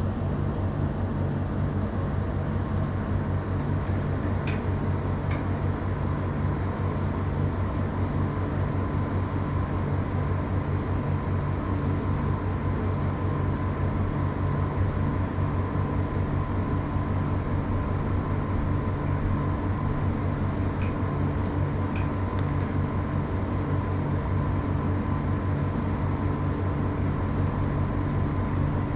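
A steady low machine hum with a faint high whine above it, unchanging throughout, and a few faint clicks.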